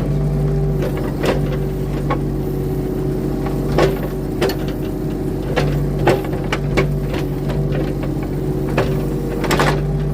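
Diesel engine of a compact earthmover running steadily under work, with irregular metallic clanks and knocks from the machine as its blade levels muddy ground.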